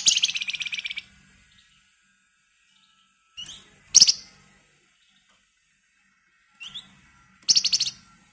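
Flamboyan (wergan Jawa) songbird singing: a fast, high rattling trill of about a second, a short note and a sharp loud note around four seconds in, then another short note and a shorter rattling trill near the end.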